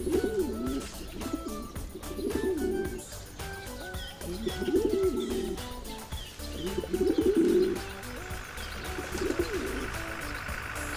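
Pigeons cooing, five warbling coos about two seconds apart, over light background music. A steady hum comes in near the end.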